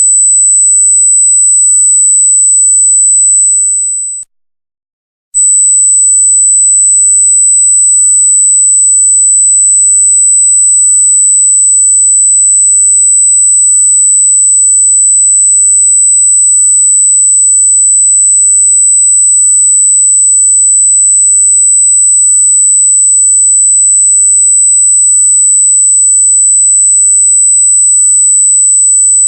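A loud, very high-pitched, steady electronic sine tone. It fades and cuts out for about a second around four seconds in, then resumes unchanged.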